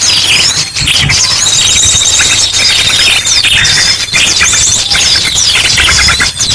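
Bird-lure recording: a dense, noisy chorus of many small birds chirping and trilling over one another, mixed with ashy drongo calls. A thin, steady high whistle runs through most of it.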